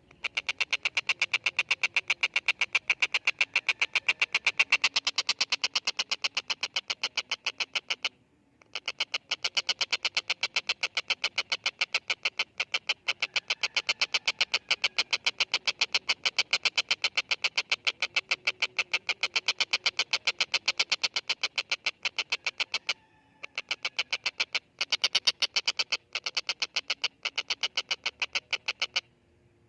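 Tengkek buto kingfisher calling: a long, fast rattle of sharp, evenly spaced notes. It breaks off briefly about a third of the way in and again about three-quarters of the way through.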